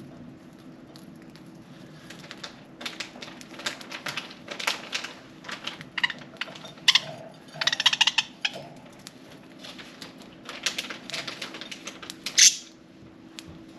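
Budgerigars pecking and cracking golden millet seeds: bursts of rapid small clicks, with a few short high chirps, the loudest near the end.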